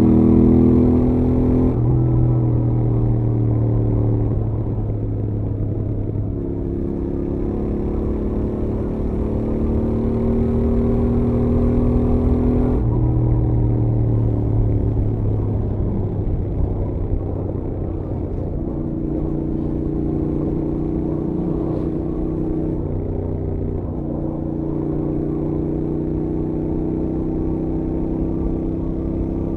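Stock Royal Enfield Interceptor 650 parallel-twin engine running on the highway. The engine note climbs under throttle, drops suddenly about two seconds in and again about thirteen seconds in, then holds fairly steady. A steady rush of wind and road noise runs underneath.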